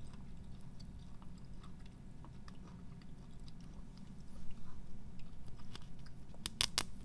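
Close-miked chewing of Kabayaki San Taro, a chewy fish-paste sheet snack, with small wet clicks and crackles throughout. Near the end comes a short run of three or four sharp crackles as the sheet is pulled apart by hand.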